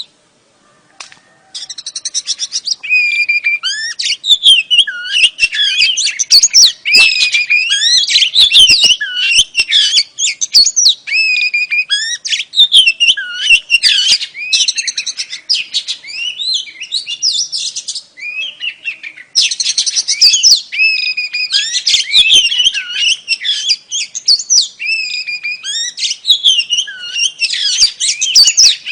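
Female Oriental magpie-robin (kacer) singing a fast, continuous run of varied whistled and chattering notes, with a short break about two-thirds of the way through. It is the kind of female song that bird keepers play to set male magpie-robins singing.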